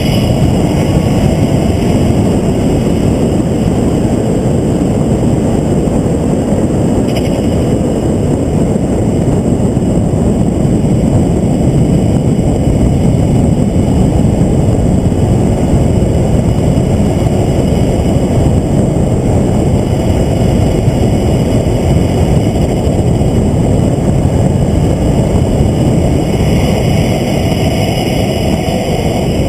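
Loud, steady rush of wind and road noise from a vehicle moving at speed on a track day, heard from on board, with no distinct engine note standing out.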